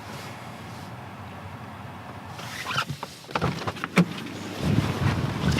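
A car's interior hum, then a run of clicks and a sharp knock about four seconds in as the car door is opened. Right after, low wind rumble on the microphone.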